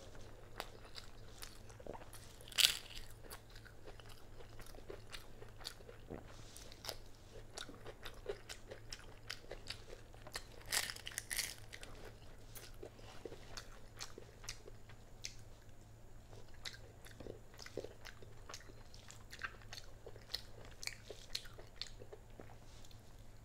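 Close-miked eating sounds: wet chewing and smacking of a mouthful of rice and chicken curry, with scattered sharp crunches. The loudest crunch comes about two and a half seconds in, and another cluster comes around eleven seconds in.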